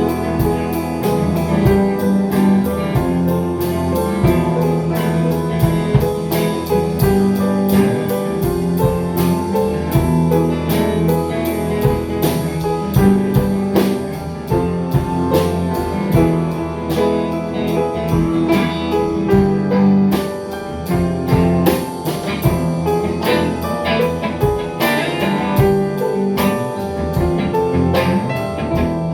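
A band playing an instrumental passage: keyboard and guitar over a drum kit keeping a steady beat.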